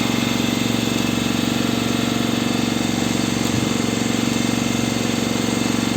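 A fishing boat's engine running steadily at an even, idling pace.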